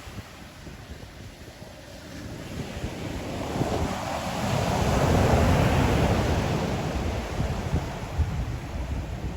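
Ocean surf: after a lull, a wave builds over a few seconds, breaks and washes in loudest around the middle, then slowly falls away.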